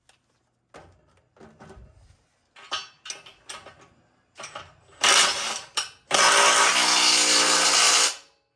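Metal parts clanking and knocking a few times, then a handheld power tool run briefly about five seconds in and again for about two seconds, cutting off sharply.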